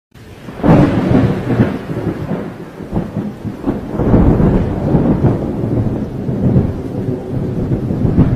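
Loud thunder close by: a sudden crack about half a second in, then rolling rumble that surges and fades for several seconds.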